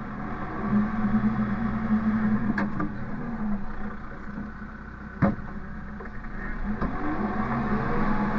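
An engine running, its speed rising and falling, with one sharp knock about five seconds in.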